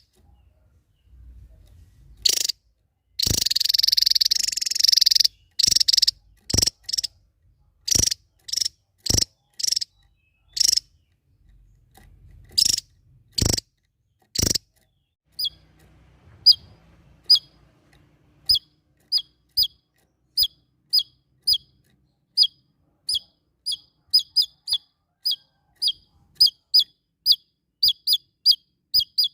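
A small songbird calling: sharp high calls and one buzzy note about two seconds long in the first half, then a run of short high chirps repeated about twice a second, coming faster near the end.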